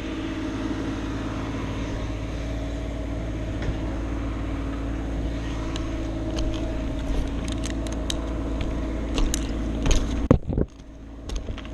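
A motor vehicle engine running steadily, with scattered light clicks in the second half and a sharp knock about ten seconds in, after which the sound drops off suddenly.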